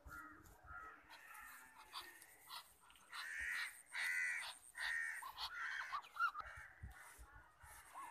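Bird calls: a run of short, harsh calls at about two a second, loudest in the middle.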